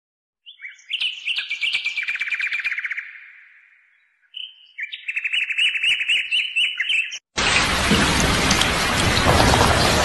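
A songbird singing two trilling phrases of rapid repeated notes. About seven seconds in it cuts abruptly to steady heavy rain, with birds chirping over it.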